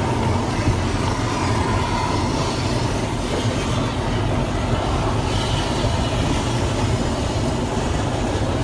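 Automatic car wash tunnel machinery, a steady low rumble and rush, heard from inside a car in neutral riding the conveyor.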